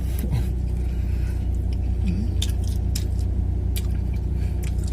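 Steady low rumble of an idling car heard inside the cabin, with scattered small clicks and rustles from handling and eating a sandwich.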